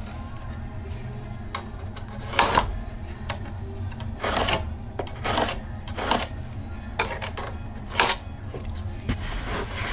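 A hand tool scraping pallet wood in irregular strokes, roughly one a second, each a few tenths of a second long, over a steady low hum.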